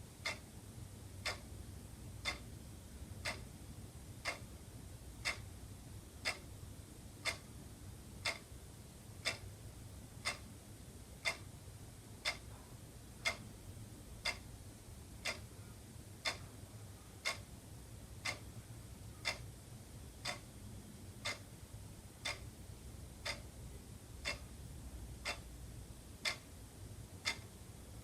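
Wall clock ticking steadily, one tick a second, with a low steady hum underneath.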